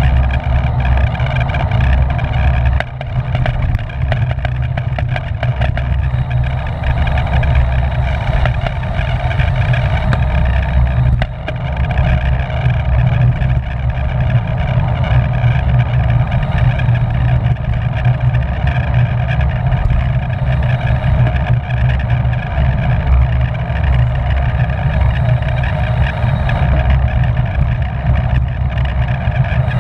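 Wind rushing over the microphone of a camera riding on a racing bicycle at speed: a loud, steady, buffeting low rumble.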